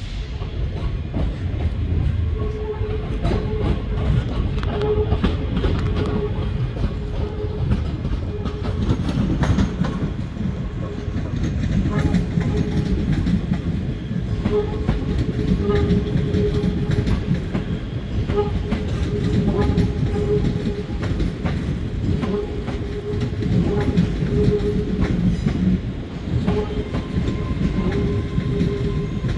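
ScotRail electric multiple-unit train passing slowly at close range, its wheels clicking and clattering over the rail joints and pointwork under a steady rumble, with a low whine that comes and goes.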